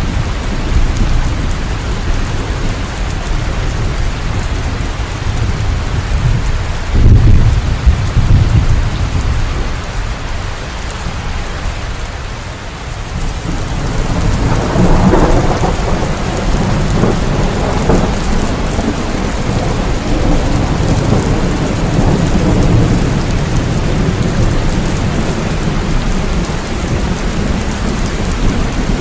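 Steady heavy rain with rolling thunder: a loud deep rumble about seven seconds in, and another long rumble swelling up about halfway through.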